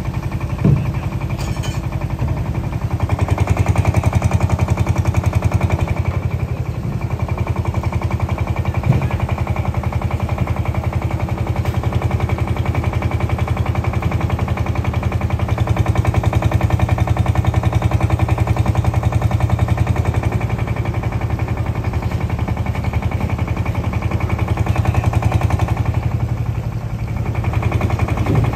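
Large diesel engine running with a fast, even chugging, swelling and easing in loudness a few times.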